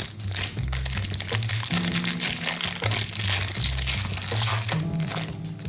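Hockey card pack wrapper crinkling and tearing as the next pack is opened, over background music with a repeating bass line.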